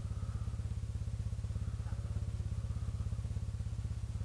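Kymco Xciting 400i scooter's single-cylinder engine running steadily, a fast, even low pulse that holds without revving up or down.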